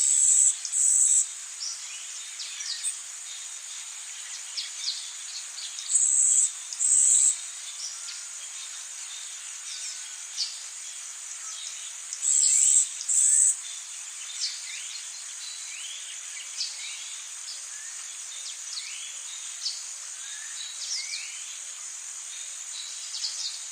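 Rainforest ambience: a steady high chorus of insects under many short, quick bird chirps. Three times, about six seconds apart, a loud high-pitched call sounds in a pair of bursts, the loudest thing in it.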